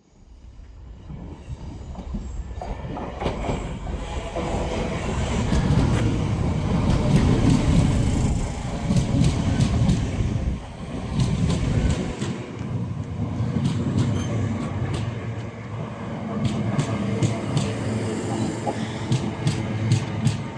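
Electric multiple-unit train running through the station, its wheels clicking over rail joints and points. It builds up over the first few seconds into a loud rumble, and the deepest part of the rumble falls away about halfway through.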